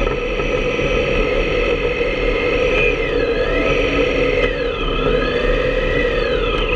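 Motorcycle riding at speed with heavy wind rush over the microphone; the engine note falls and climbs again twice, near the middle and towards the end, as the revs drop and pick up.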